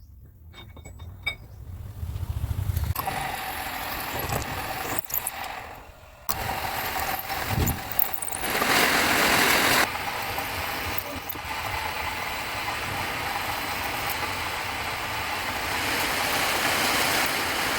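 A power tool's motor running steadily. Its sound dips briefly about six seconds in and is louder for a couple of seconds around the ninth second.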